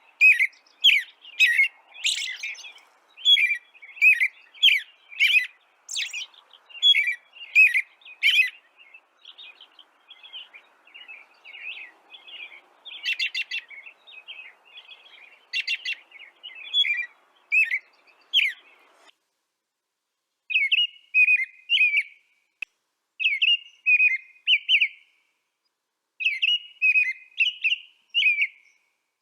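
Songbird chirping in sharp, quick notes, about two a second at first, then softer twittering and short runs of chirps broken by brief pauses.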